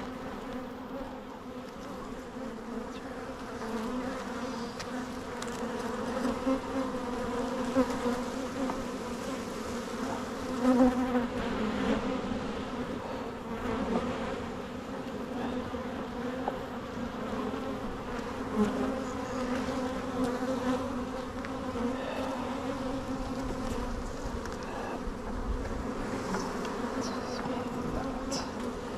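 Honeybees buzzing around an open hive, many bees in flight together making a steady, even drone.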